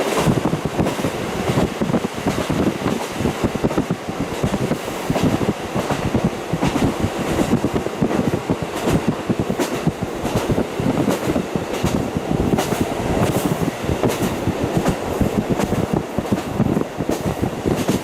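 KiHa 40 diesel railcar running at speed, heard through a fully open window: wheels clicking over rail joints amid steady running and wind noise, with the diesel engine underneath.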